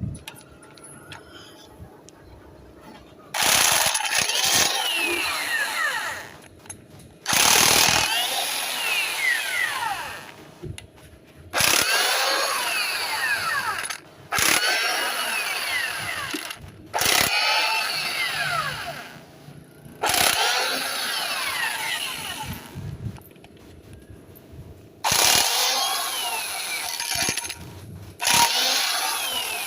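A power tool run in about eight bursts of a few seconds each, every one starting suddenly and dying away with a falling whine, with short pauses between.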